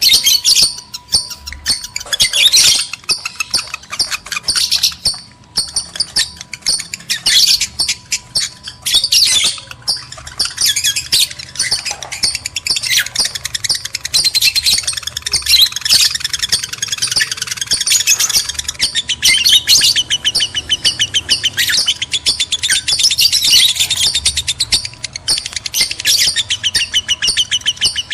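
Lovebirds in breeding condition calling in a dense, continuous stream of rapid, shrill chirps and squawks.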